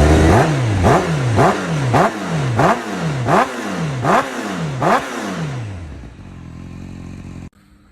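A motorcycle engine revved in quick repeated throttle blips, about eight in a row, each rising sharply and then falling back. The blips fade out after about five seconds.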